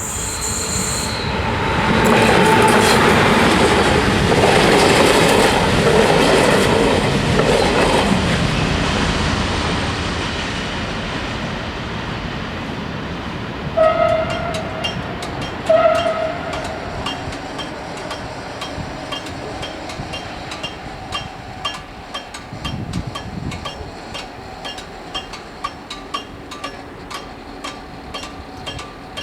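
A train passing over a level crossing, loud for several seconds with wheels clattering, then fading as it moves away. About halfway through come two short horn blasts about two seconds apart. After that the crossing bells keep ringing with quick, even strikes.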